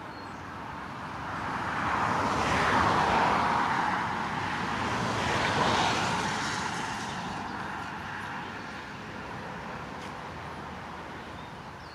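Cars passing on a nearby highway: a rush of tyre and engine noise that builds, peaks twice, and fades away as the vehicles go by.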